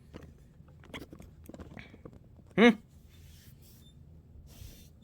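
Small clicks and rustles of hands handling an opened laptop and its parts, with one short, loud, rising voice-like sound about two and a half seconds in.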